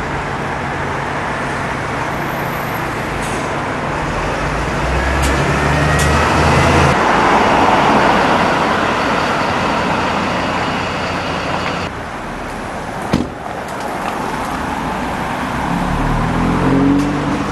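Motor traffic: an engine running low, then a vehicle passing with a swell of noise about seven or eight seconds in. A single sharp click comes about thirteen seconds in, and a low engine sound rises again near the end.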